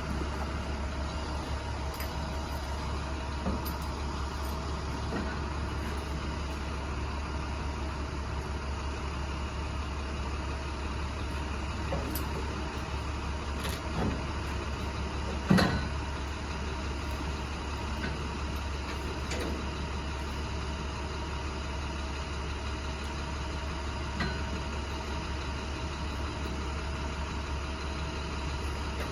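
Box truck engine running with a steady low drone, with scattered light rattles and one louder thump about fifteen seconds in.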